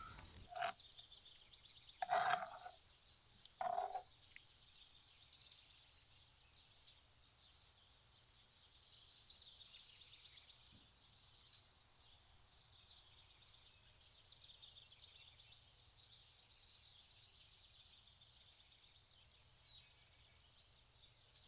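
High-pitched chirping and trilling animal calls in the background, with a few short clinks of utensils in the first four seconds.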